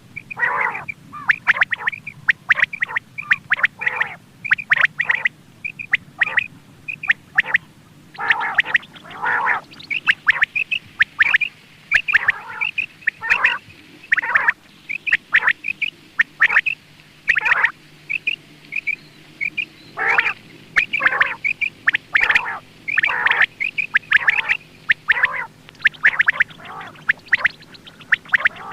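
Quail calling over and over: runs of short, harsh calls several times a second, with a brief lull about two-thirds of the way through.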